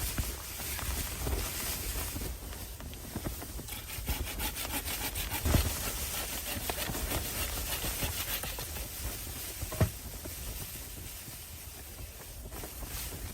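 Wood being worked by hand: scraping strokes, quick and rhythmic through the middle, with a sharp knock about five and a half seconds in and another near ten seconds.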